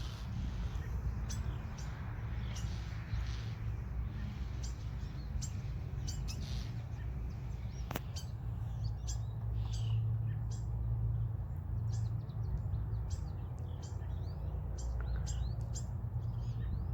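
Songbirds calling in alarm, many short sharp chirps at irregular intervals, over a steady low rumble. The birds are upset at a weasel raiding a starling nest in the tree.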